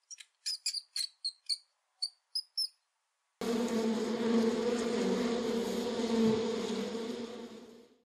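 A run of short, high squeaks, then from about three and a half seconds in the steady buzzing hum of a mass of honeybees on their comb, fading out near the end.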